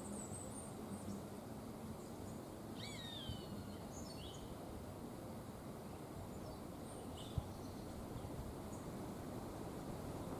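Wind moving through cloud-forest trees as a steady low rush, with several birds calling: high chirps at the start, a clearer falling call about three seconds in, and scattered short calls after. A single sharp click a little past seven seconds.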